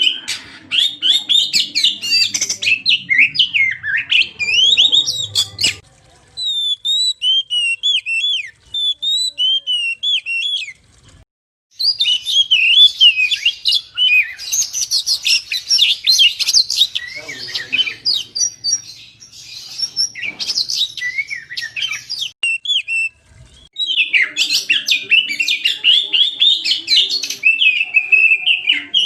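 Oriental magpie-robin (kacer) in full, continuous song: a fast, varied stream of chirps and whistles, broken by short pauses about 11 and 23 seconds in.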